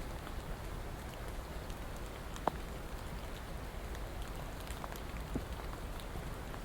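Steady rain: an even hiss with scattered drops ticking. One drop lands louder about two and a half seconds in.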